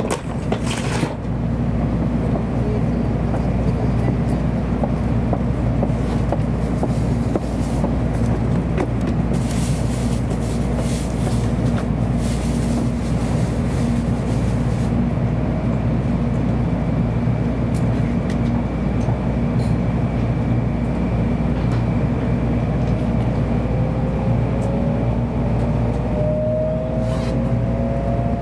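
Shinkansen cabin noise as the train pulls out of a station and gathers speed: a steady low rumble and hum, with a rising whine from about three-quarters of the way in as it accelerates.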